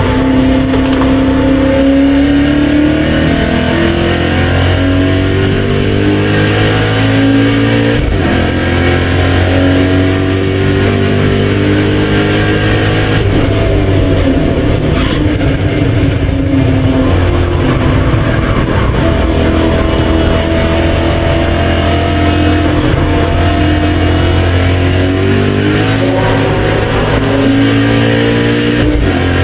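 BMW M5 E39's V8 at hard throttle, its pitch climbing steadily through the revs and falling back at each upshift, several times over.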